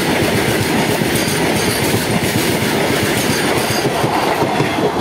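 The last wagons and brake van of a heavily loaded freight train rolling past close by, their steel wheels running loud and steady over the rails.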